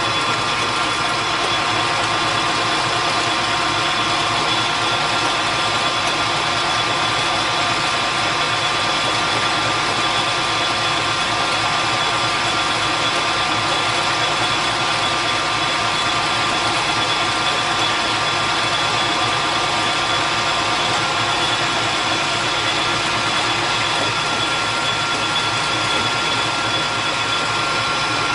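Metalworking machine tool running steadily with a steady motor and gear whine, taking a light cut of about eight thousandths to creep up on final size.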